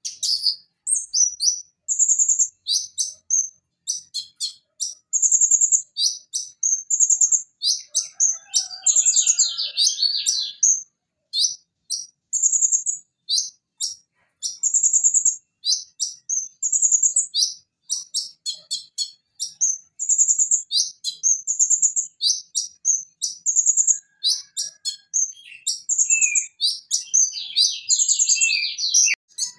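Van Hasselt's sunbird (konin) singing a rapid, continuous run of high, sharp chirps and short trilled notes, with brief gaps between phrases.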